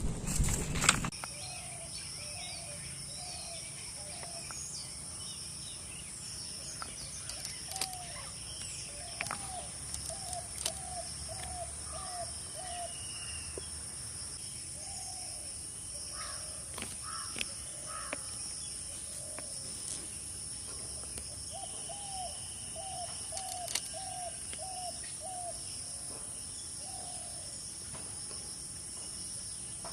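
A bird calling in runs of about six short, rising-and-falling notes, roughly two a second, twice, over a steady high-pitched insect drone.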